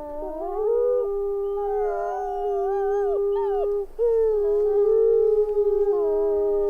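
Chorus of wolves howling: several long howls overlap at different pitches, some gliding up and down, with a brief break about four seconds in before a new howl takes over.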